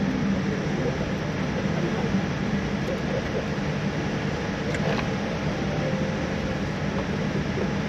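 Steady cabin air-conditioning noise inside a parked Boeing 787-9 airliner: an even rush with a constant low hum beneath it. A faint click comes about five seconds in.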